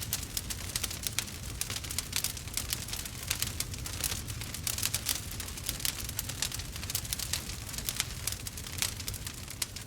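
Wood fire burning steadily, with dense crackling and frequent sharp pops from the burning wood over a low rumble.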